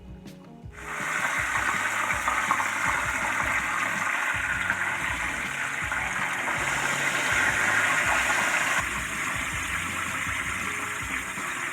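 Breaded chicken schnitzel sizzling in hot frying oil, a loud steady hiss that starts abruptly about a second in.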